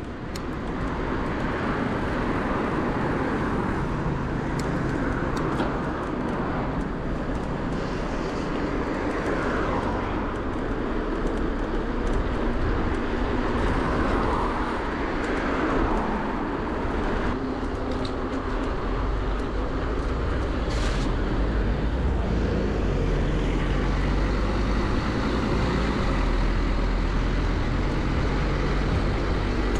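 Traffic noise and wind rumble on the microphone while riding an electric bike through city streets. The low rumble grows heavier about two-thirds of the way through.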